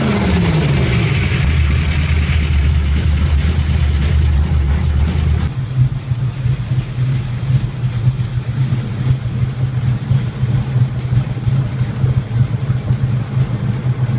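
BMW S62 4.9-litre V8 from an E39 M5 running: a steady low drone that changes abruptly about five seconds in to a higher note whose loudness pulses unevenly. The engine is running better but not perfectly after a previous owner's bad tune.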